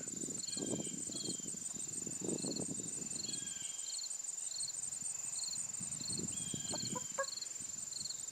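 Chickens clucking softly now and then, over crickets and other insects chirping steadily, one chirp about every half second.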